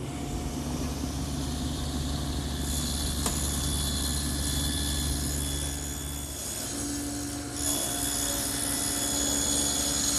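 Table saw fitted with an adjustable dado head, running steadily while cutting a dado across a desk side panel. The cutting hiss grows louder about two and a half seconds in and again near the end.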